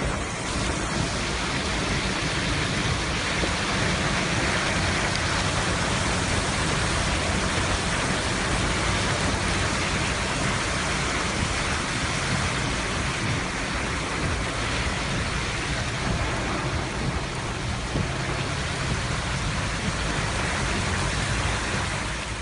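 Heavy rain falling, a steady dense hiss without a break.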